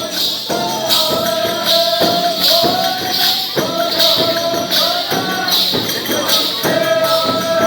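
Chang frame-drum music for a Falgun gair dance: the drum beaten in a steady rhythm with a bright jingling accent about every three-quarters of a second, under a melody of long held notes.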